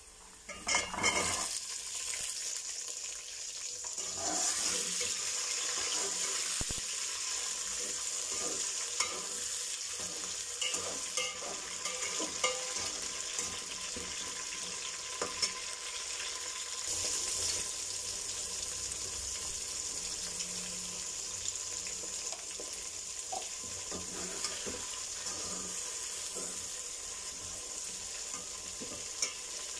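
Potato cubes and green peas tipped into hot oil and fried onions in an aluminium pot: a loud burst of sizzling about a second in, then steady frying sizzle. A slotted metal spoon stirs through it, scraping and clinking against the pot.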